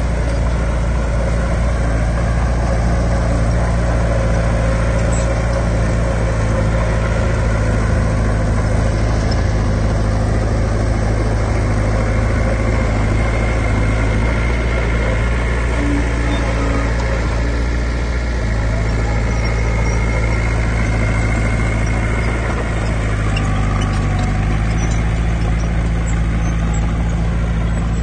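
Heavy diesel construction machinery engine running steadily, its note shifting slightly twice in the second half.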